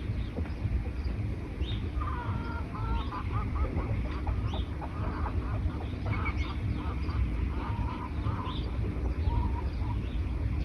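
Wild birds calling: short high chirps about every second, and a lower chattering call from about two seconds in until near the end, over a steady low rumble.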